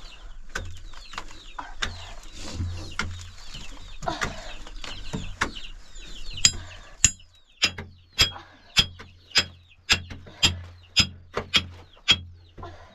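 Short high chirps from birds, then about halfway through a steady run of about a dozen sharp knocks, a little under two a second.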